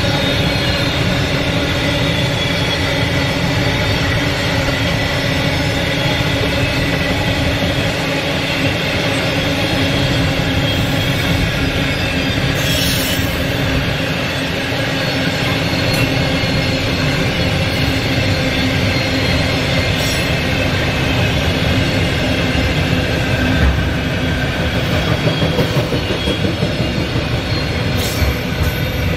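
Container wagons of a freight train rolling past at speed: a steady, loud rumble of steel wheels on rail with constant ringing tones over it and a few sharp clicks.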